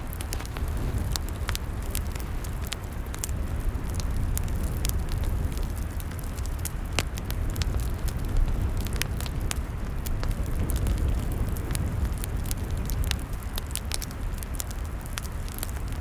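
Log fire burning, with frequent sharp, irregular crackles and pops over a steady low rumble.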